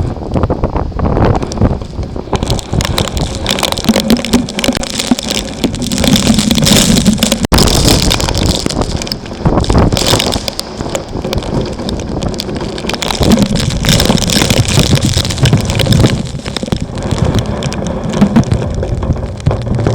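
Thunderstorm wind gusting hard against the microphone with rain, a loud, ragged rumble and buffeting.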